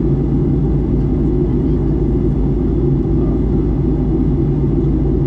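Steady cabin noise of a Boeing 737 MAX 8 in flight, heard from inside the passenger cabin: a loud, even rumble of its CFM LEAP-1B engines and the airflow, with a constant low hum.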